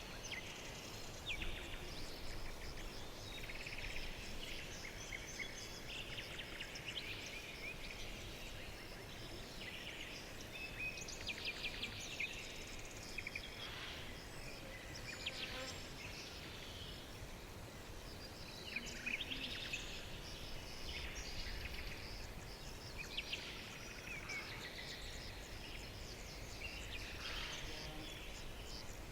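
A chorus of small birds chirping and singing over one another, many short calls and quick rattling trills, over a faint low rumble.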